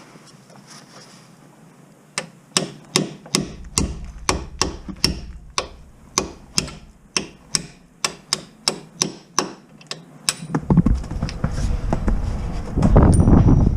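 Repeated hammer blows on a workpiece, a steady series of sharp strikes about three a second for around eight seconds. Near the end a loud rushing noise takes over.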